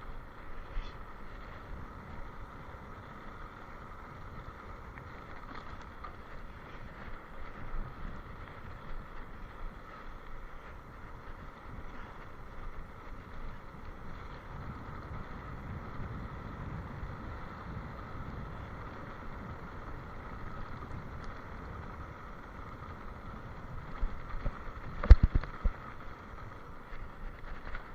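Steady rumbling noise with wind on the microphone, and a brief cluster of loud knocks about 25 seconds in.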